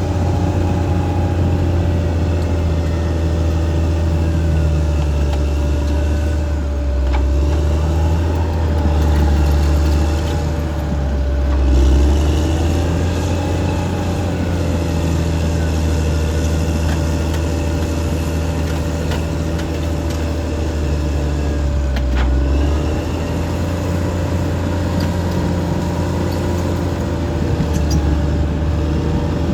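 Caterpillar D6R XL bulldozer's diesel engine running continuously as the dozer works, its pitch dipping and rising with the load and a steady whine above the low engine sound. It swells a little louder about a third of the way through.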